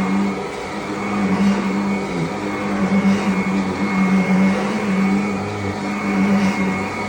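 Vacuum cleaner running with a steady motor hum.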